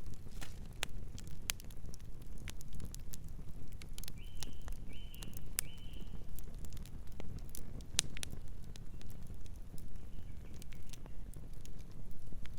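Campfire crackling, with many sharp pops at irregular intervals over a steady low rumble. A bird chirps three times in quick succession about four to six seconds in, with fainter chirps later.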